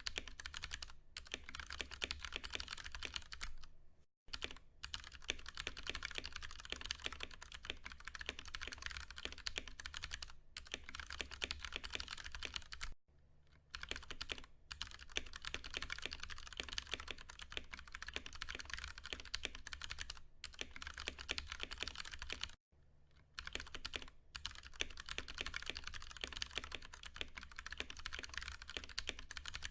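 Fast, continuous typing on a Ducky One 2 Mini mechanical keyboard with Cherry MX Brown tactile switches, a dense patter of key clacks broken by three short pauses, about four, thirteen and twenty-two seconds in.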